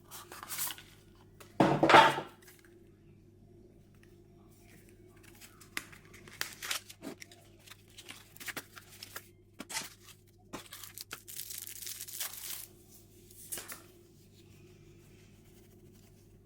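Speed-cube packaging being torn and opened by hand: a loud short rip about two seconds in, then scattered crinkling, rustling and small clicks, with a longer tearing sound after the middle.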